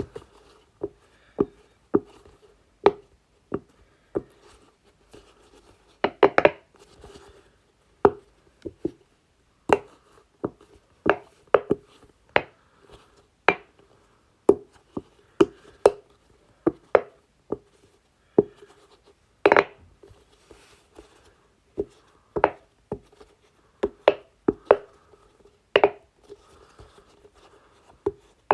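Large silicone Pop-It ball fidget toy having its bubbles pressed in one at a time: a string of sharp pops with a brief hollow ring, about one or two a second at an uneven pace, a few louder double pops along the way.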